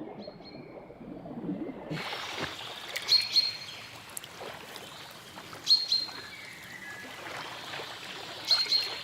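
A bird's short, high double chirp, repeated three times about two and a half seconds apart, over a steady outdoor ambience of water and background noise that comes in about two seconds in.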